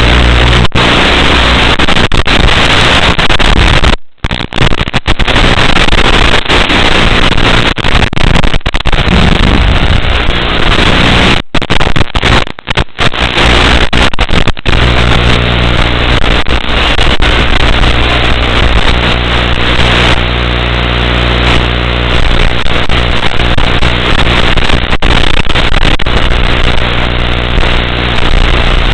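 Loud static hiss and steady buzzing hum of an analog FPV video link's audio recorded through the goggles. It cuts out briefly about four seconds in and again a few times around twelve to thirteen seconds.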